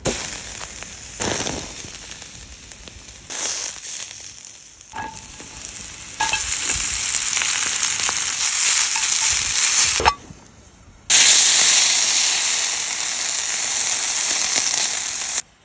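Food sizzling over a charcoal grill: sliced beef on the wire grate and mushrooms and onion frying in an iron skillet. The hiss comes in short clips that start and stop abruptly, dropping away briefly about ten seconds in before coming back loud.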